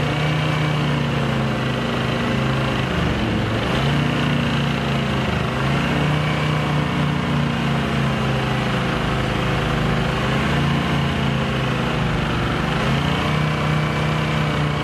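Car engine running steadily under load, driving a bare front brake disc against the clamped brake until the disc glows red-hot. Its pitch wavers, dipping briefly about three seconds in and again near the end.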